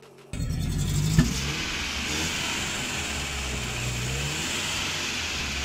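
Suzuki Cultus hatchback's small three-cylinder petrol engine running steadily, the revs rising a little around four seconds in, with a steady hiss over it and a single knock about a second in.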